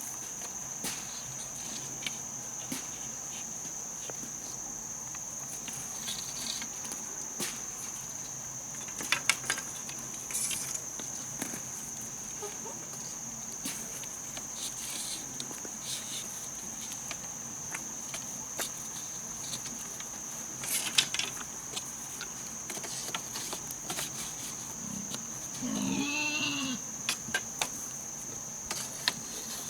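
Insects droning in a steady, high-pitched whine, with scattered light clicks and knocks. About 26 seconds in there is a short animal call whose pitch rises and falls.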